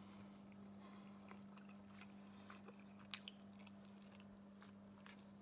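Faint chewing and small mouth clicks of someone eating a forkful of food, with one sharper click about three seconds in, over a steady low hum.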